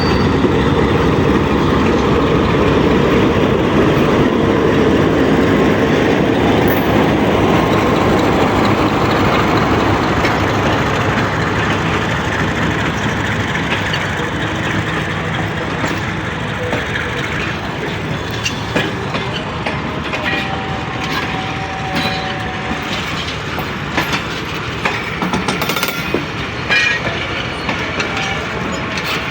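A departing passenger train's coaches rolling past close by, the wheels clattering over the rail joints. The rumble is loud at first and slowly eases over the second half as the train draws away, leaving sharper clicks.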